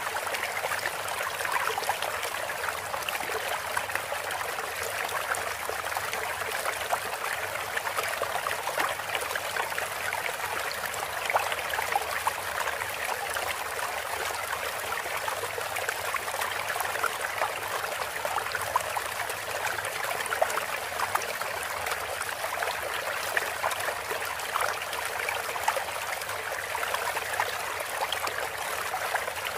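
Steady running water, a continuous stream trickling and splashing, played as a water-therapy interlude for cage birds.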